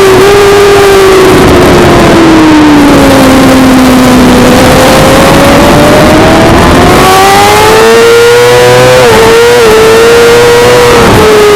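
Suzuki GSX-R600 inline-four race bike at full throttle on track, very loud. The revs fall over the first few seconds as it slows, then climb steadily as it accelerates. Near the end come a few quick dips in pitch at the gear changes, all over a constant rush of noise.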